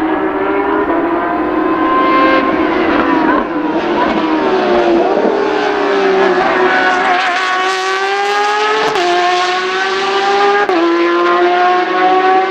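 Porsche 911 race car's flat-six engine on track: its pitch falls as it comes off the power, then it accelerates hard, climbing in pitch with two sharp drops at upshifts in the second half.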